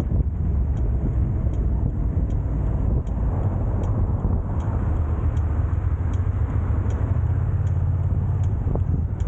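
A steady low rumble like a running motor vehicle, with faint high ticks repeating a little more than once a second.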